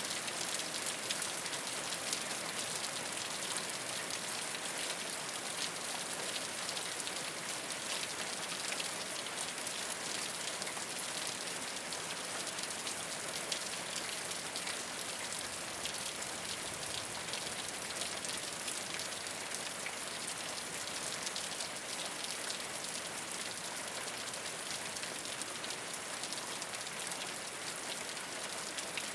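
Steady rain falling on a rooftop: a dense, even hiss of drops with many small ticks of individual drops striking the surface.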